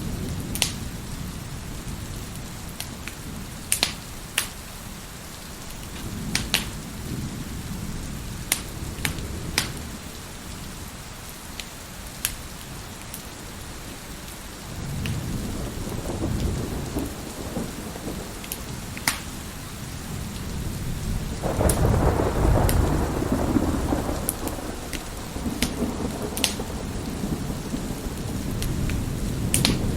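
Wood fire crackling with scattered sharp pops over steady rain and rolling thunder. A long, loud thunder rumble builds about two thirds of the way in.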